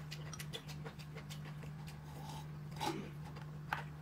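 Close-up eating sounds: chewing and lip-smacking clicks scattered throughout, with a louder smack near three seconds in, over a steady low hum.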